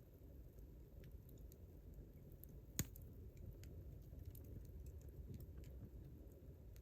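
Wood campfire burning with a soft low rumble and scattered faint crackles, and one sharper pop nearly three seconds in.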